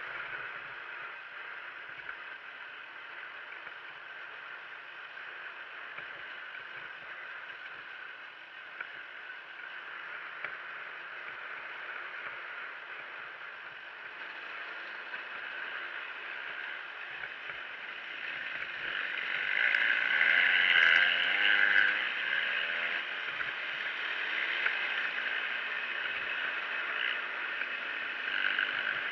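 Motor vehicle engines running steadily, growing louder about twenty seconds in as one comes close and its pitch wavers, then settling back.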